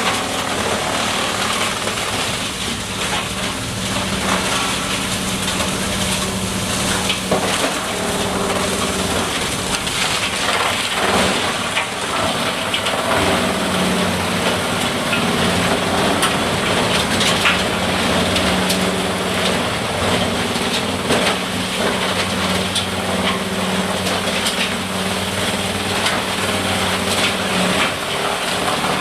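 Engine-driven wood-processing machine running steadily while wood cracks and crunches as it is broken up, with frequent sharp snaps. The engine note sags briefly about eleven seconds in, then recovers.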